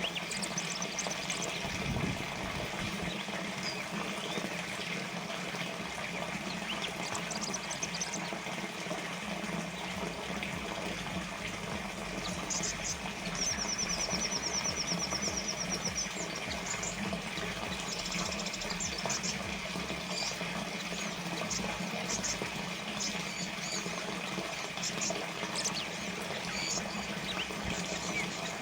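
Water trickling and splashing steadily, as from a small fountain. Small birds chirp high over it, with a fast trill about halfway through.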